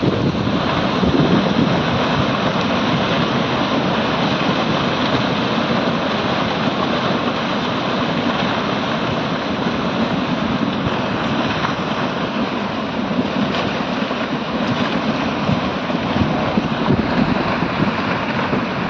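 Debris-laden torrent of mud and stones rushing down a mountain stream channel: a loud, steady rushing noise.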